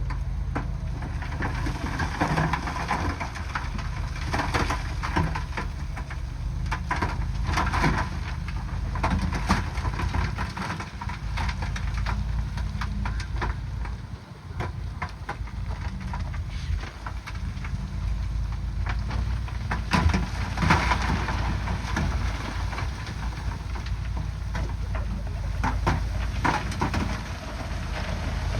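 Heavy diesel machine, most likely a bulldozer, running with a steady low engine rumble, while rock crunches and clanks with many irregular sharp knocks as it is pushed and broken.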